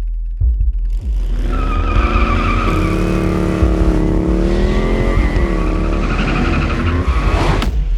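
Motorcycle engine running hard under load, its pitch rising and falling as it revs, with a short sharp rush of noise near the end.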